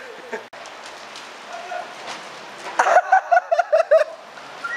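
Steady rain hiss on wet concrete, with a quick run of about six short, loud, pitched vocal calls about three seconds in.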